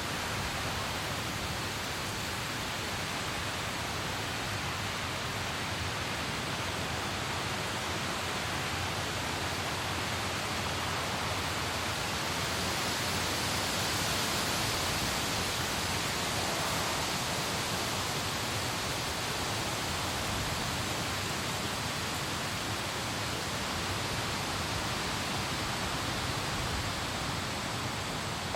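Steady hiss of rain, swelling a little near the middle.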